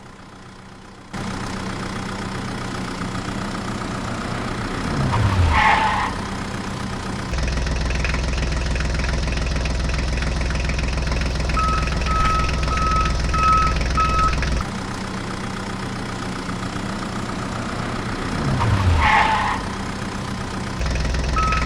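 Cartoon vehicle sound effects: an engine running steadily, with a falling glide in pitch twice and a run of short, evenly spaced beeps near the middle. The pattern repeats, as a looped effect does.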